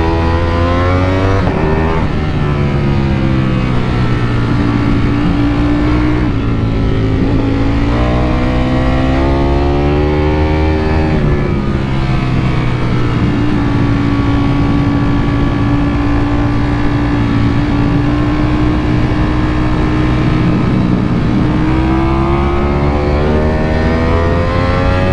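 Ducati Panigale V4 engine under way on the road, revving up and easing off as it accelerates, then holding a steady pitch for several seconds mid-way before climbing again near the end.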